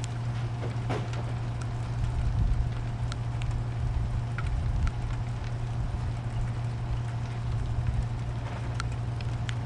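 Rain during a thunderstorm: a steady hiss with scattered drips and ticks, over a steady low hum. No thunderclap is heard.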